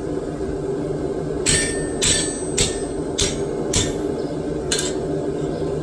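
Hammer blows on forged steel over an anvil, flattening the piece: six sharp strikes about half a second apart, starting about a second and a half in, over a steady low hum.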